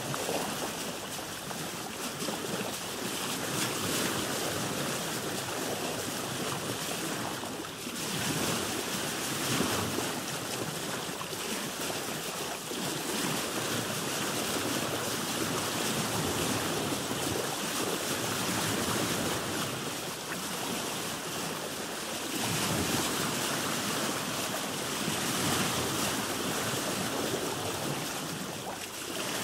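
Sea waves washing around a boat: a continuous rushing of water that swells and eases every few seconds.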